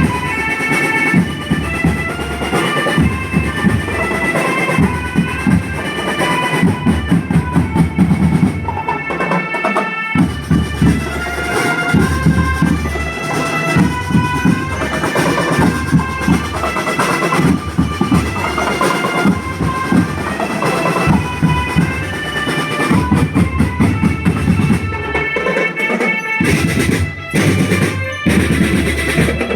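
School marching drum band playing: a steady drum beat with bass drums under a bright, note-by-note melody. The low drums break off for a moment twice, about ten seconds in and near the end, before picking up again.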